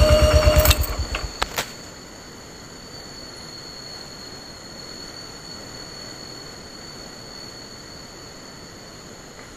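A small motorcycle engine running with a rapid even throb cuts off within the first second, followed by a few sharp clicks. After that a steady, thin, high-pitched insect drone carries on over a faint hiss.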